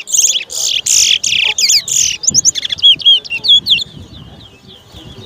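Caged towa-towa finch song at a singing race: rapid runs of sharp, swooping chirps, dense and loud for the first four seconds and then trailing off to a few fainter notes.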